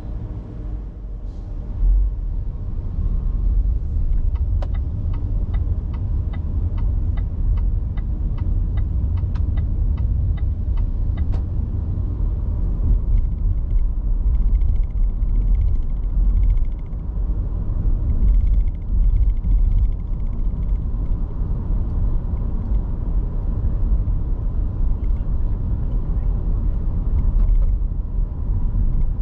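Car driving, a steady low road-and-engine rumble. A run of sharp regular ticks, about two to three a second, lasts several seconds, and later comes a stretch of pulsing high beeps.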